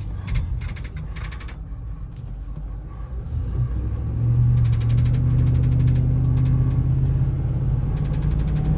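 The 2016 Ram 5500's 6.4-litre gasoline Hemi V8, heard from inside the cab as the truck drives. It runs quietly at first, then pulls harder about four seconds in as the truck accelerates, settling into a steady low drone.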